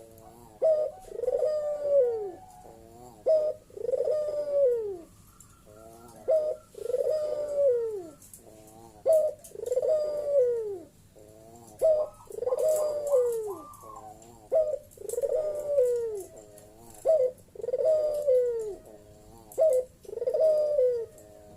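Puter dove (Barbary dove) cooing over and over: loud, deep coos that fall in pitch, about one every second or so, with softer short notes between them. This is the loud 'gacor' calling used to provoke rival doves to answer.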